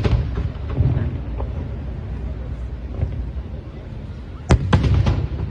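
Aerial fireworks shells bursting: a quick cluster of sharp bangs about four and a half seconds in, over a low rumble of echoing reports.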